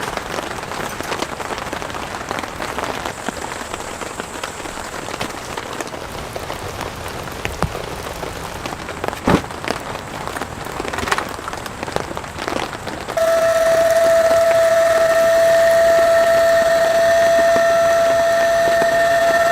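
Rain pattering steadily on a surface, with one sharp knock about nine seconds in. About thirteen seconds in, a loud, steady whistling tone starts and holds at one pitch, louder than the rain.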